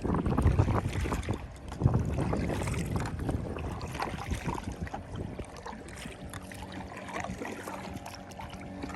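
Small boat out on a lake: water sloshing and wind gusting over the microphone, with a steady low hum coming in past the middle.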